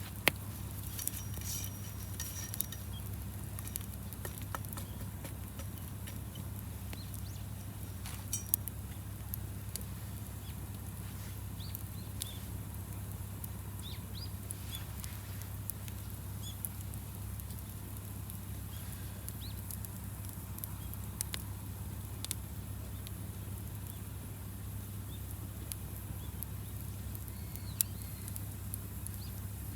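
Wood bonfire burning, with sharp crackles and pops every few seconds over a steady low rumble.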